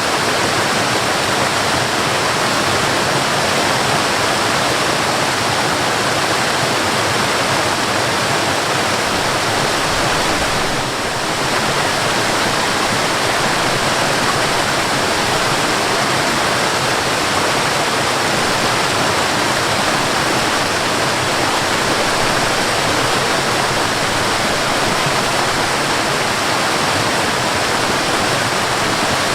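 Waterfall: a steady, even rush of falling water, dipping slightly for a moment about eleven seconds in.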